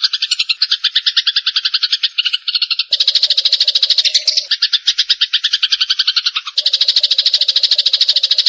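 Eurasian tree sparrows chattering: a fast, continuous run of sharp chirps, about a dozen a second, that changes abruptly about three seconds in and again near the end, as in spliced training audio.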